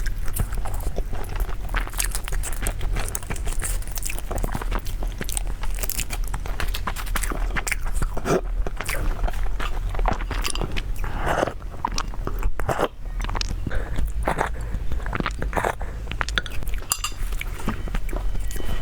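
Close-miked eating: irregular crunching bites and wet chewing of food, many small sharp clicks and smacks in quick succession, over a steady low hum.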